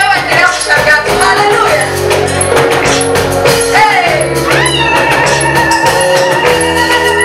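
A gospel song with a band: a bass line and a steady percussion beat under singing. About halfway through, a voice holds a long note with vibrato.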